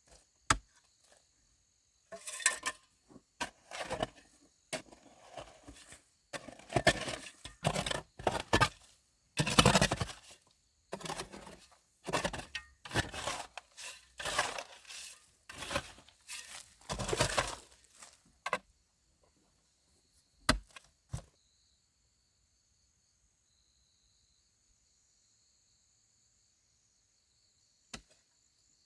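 Leaves and branches being handled: irregular rustling, tearing and scraping that stops about two thirds of the way in, followed by a few isolated snaps. Insects trill steadily and faintly in the background.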